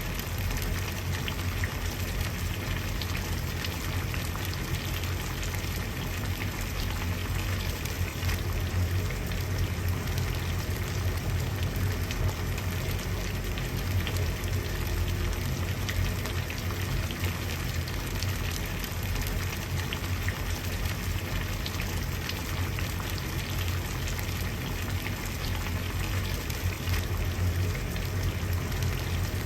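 Water boiling: a steady bubbling with many small pops over a low rumble.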